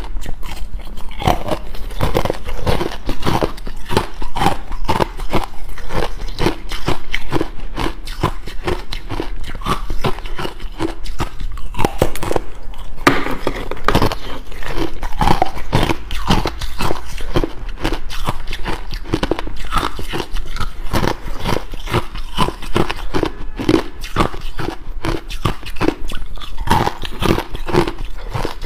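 A person biting and chewing ice close to the microphone: continuous, irregular crunching and cracking.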